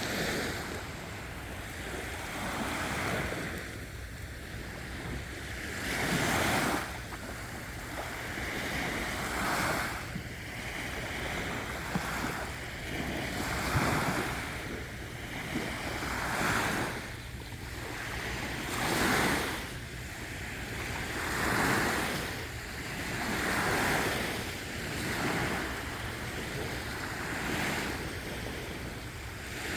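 Sea waves breaking and washing onto a beach. The surf swells and fades about every two to three seconds, over a steady low rumble.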